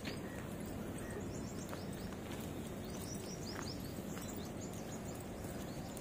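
Small birds giving short, high chirps that fall in pitch, a few times over several seconds, above a steady outdoor background hiss.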